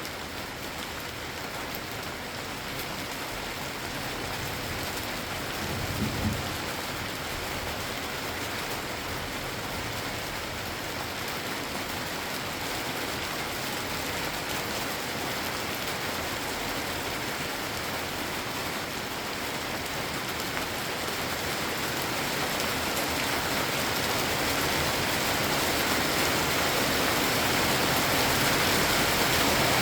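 Steady rain falling, growing heavier over the last ten seconds. There is a brief low thump about six seconds in.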